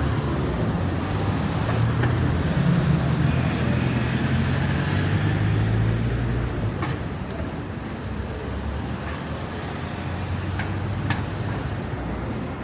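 Street traffic: a motor vehicle's engine running close by as a low hum that swells over the first few seconds, then fades into steady traffic noise.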